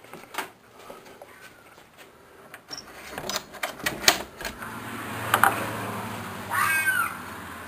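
Clicks of a door latch and handling, then open night air with one screeching animal cry near the end that arches up and down in pitch. The animal had been crying like this for hours and seemed to be in distress.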